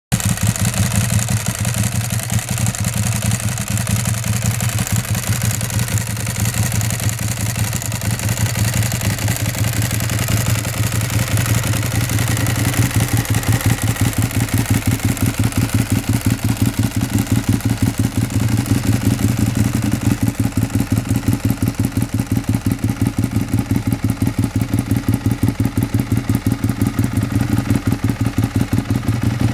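Ducati 1098 Superbike's L-twin engine idling steadily through a Termignoni exhaust with dual carbon-fibre cans, an even pulsing beat. About twelve seconds in, the low beat grows fuller and more pronounced.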